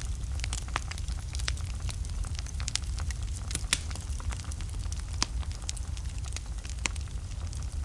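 Wood fire burning in a fireplace: a steady low rumble of the flames with irregular sharp crackles and pops from the burning logs, the loudest pop a little under four seconds in.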